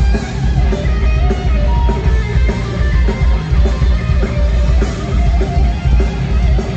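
Heavy metal band playing live: distorted electric guitars over bass and drums, loud and continuous, as heard from the crowd.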